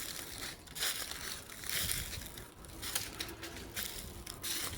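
Footsteps crunching on a dirt and gravel trail at a steady walking pace, about one to two steps a second.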